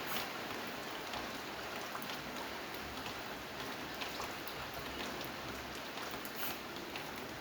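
Steady rain falling, with scattered louder drops striking now and then.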